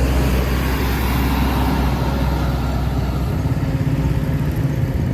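Heavy vehicle's diesel engine running with road noise; its low note shifts higher about three seconds in.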